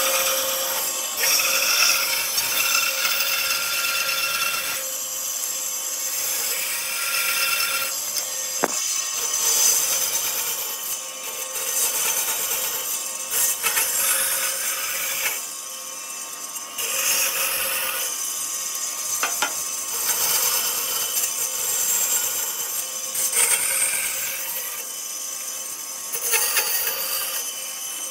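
Wood being sawn and worked with tools, with rasping, rubbing strokes. The sound changes every few seconds from one stretch of work to the next.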